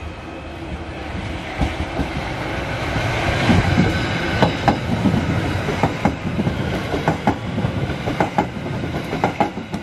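Merseyrail Stadler Class 777 electric train pulling out and passing close by: a steady rumble of wheels on rail that builds over the first few seconds, with irregular clacks as the wheels run over rail joints and the points.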